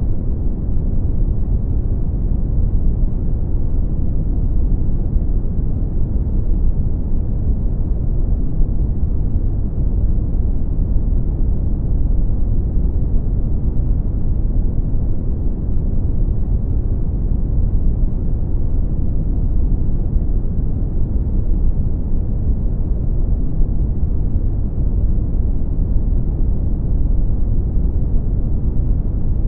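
Brown noise: a steady, deep rushing hiss, strongest in the bass and dull in the treble, unchanging throughout.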